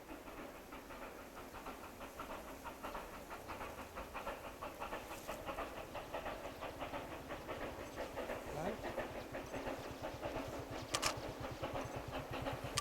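C2-class narrow-gauge steam locomotive working at a distance, its exhaust chuffing in rapid, even beats. A low, fast pulsing joins in about halfway through, and there is a single sharp click near the end.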